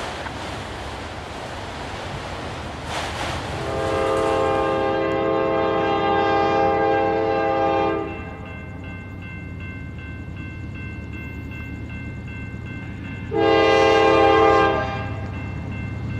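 Diesel freight locomotive air horn sounding a chord of several notes: one long blast of about four seconds, then a short blast about five seconds later, over the low rumble of the train.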